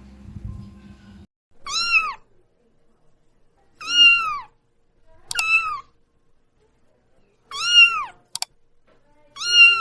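A cat meowing five times, each meow rising and then falling in pitch, about two seconds apart, as background music fades out in the first second.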